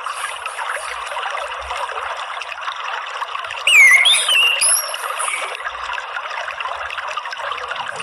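Water trickling steadily, with one short phrase of whistled birdsong, quick rising and falling notes, about halfway through.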